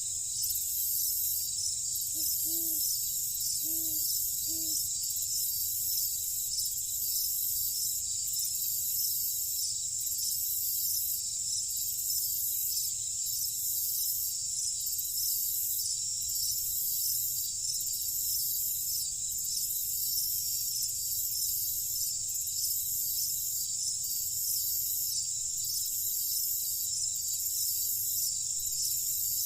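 Night insect chorus: a steady high-pitched chirring that pulses at an even rhythm, over a low rumble. About two to five seconds in, three short low hoots sound in quick succession.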